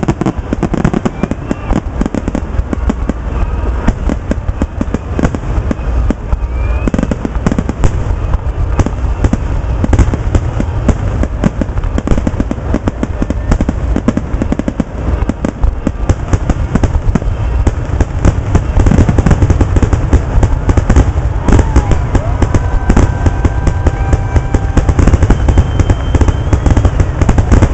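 Aerial fireworks grand finale: shells bursting in a dense, continuous barrage of bangs, getting louder in the last third.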